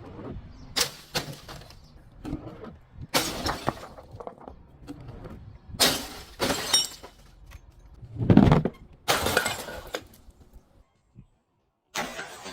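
Glass bottles breaking and shattering in about five loud crashes, with smaller crunching and tinkling of glass between them; the sound stops for a second or so near the end.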